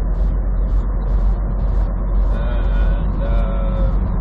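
Steady road and engine noise inside a moving vehicle's cab at highway speed, with a couple of faint held tones between about two and four seconds in.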